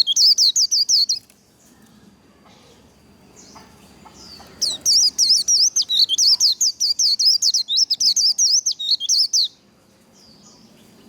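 White-eye singing its rapid, high-pitched 'líu' warbling song, a fast run of quick up-and-down notes. One bout breaks off about a second in, and a longer bout comes in near the middle and lasts about five seconds.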